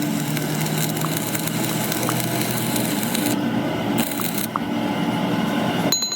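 Metalworking machine running and cutting metal, a rough grating noise over a motor hum that wavers in pitch. The sound changes abruptly near the end.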